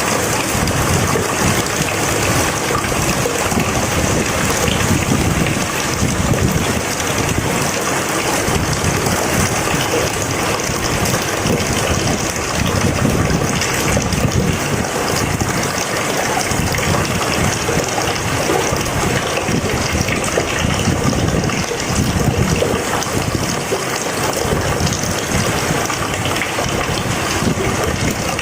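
Rain falling in a steady, unbroken hiss.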